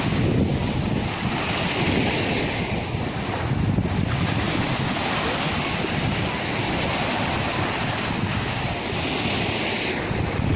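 Sea waves washing in with a steady rushing hiss that swells about two seconds in and eases near the end. Wind buffets the microphone with a low rumble throughout.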